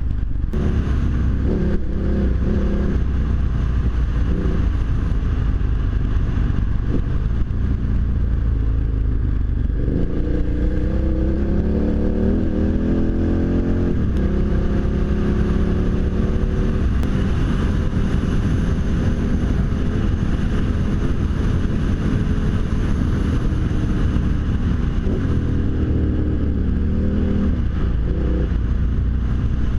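KTM V-twin adventure motorcycle engine running under way, with steady wind rush. About ten seconds in it accelerates, its pitch rising, then drops back at a gear change near the middle and runs steadily again.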